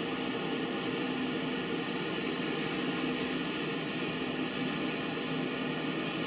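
Large wheat-harvest machines, combines and tractors, running together: a continuous engine drone with a steady low hum and no break.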